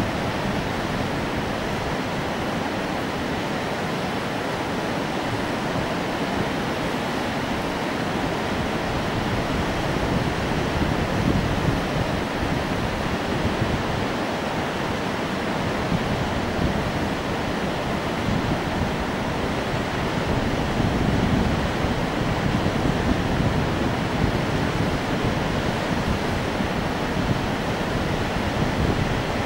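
Steady rush of the fast-flowing Indus River's water.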